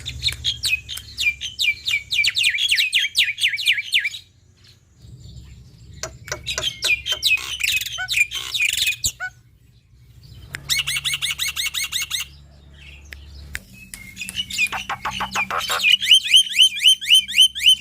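Black-winged starling (jalak putih) singing loud, rapid runs of repeated chirping notes in four bursts with short pauses between, the last burst the loudest. A faint low hum sits underneath.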